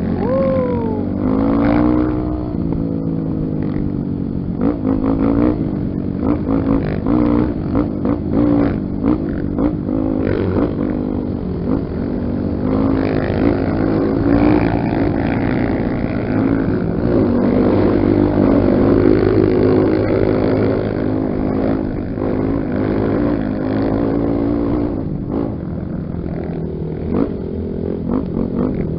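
Dirt bike engine, the single-cylinder four-stroke of a Honda XR 250 Tornado, revving up and down repeatedly while riding a trail, with other engine notes overlapping.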